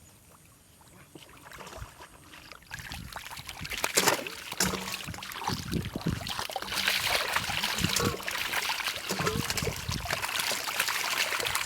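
Water splashing and trickling. It is faint at first, then builds after a couple of seconds into continuous splashing with sharp splats, the loudest about four seconds in.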